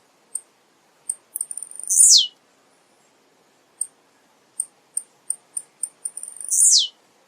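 Male blue-black grassquit (tiziu) singing: short high chips, then a buzzy phrase that sweeps sharply down in pitch. The song comes twice.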